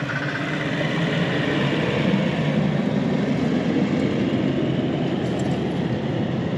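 Toyota Land Cruiser driving while towing a camping trailer: a steady rumble of engine and road noise.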